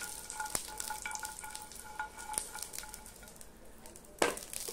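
Garlic cloves and dried red chillies sizzling in hot oil in a frying pan, stirred with scattered clicks; the sizzle grows fainter toward the end. A single sharp knock comes near the end.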